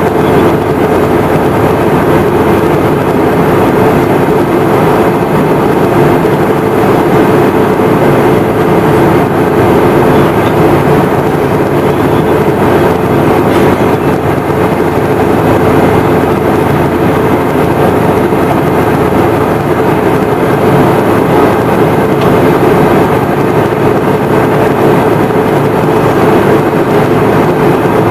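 Steady, loud cabin noise of a Boeing 717-200 from a rear window seat: the drone of its tail-mounted Rolls-Royce BR715 engines blended with a constant rush, strongest in a low hum, with no change in level.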